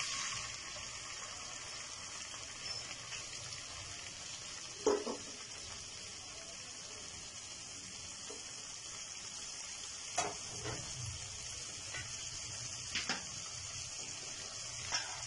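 Chicken pieces sizzling in hot oil in a nonstick frying pan: a steady high hiss with a few louder pops and crackles.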